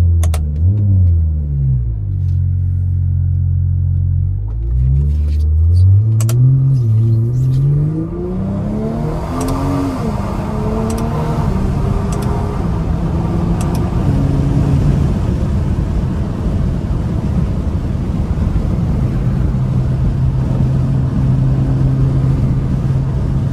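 BMW X5 xDrive45e's tuned turbocharged 3.0-litre inline-six pulling through the gears, its pitch climbing and dropping with each shift over the first dozen seconds. It then settles into a steady drone under rising road and wind noise, with a few sharp clicks along the way.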